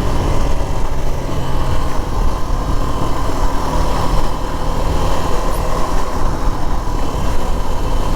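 Suzuki V-Strom SX 250's single-cylinder engine running steadily on the move, heard from the rider's position, mixed with a steady rush of riding wind.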